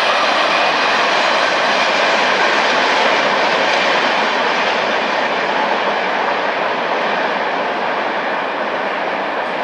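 A train passing: a steady rush of wheels rolling on the rails, slowly fading near the end.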